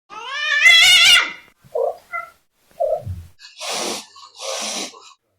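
A cat gives a loud, wavering meow that rises in pitch, followed by a few short faint sounds and then two short breathy bursts near the end.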